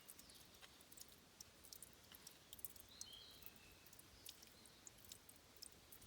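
Faint water at a spring-fed stream source, heard as scattered high clicks and drips over a soft hiss, with a few short high chirps around the middle.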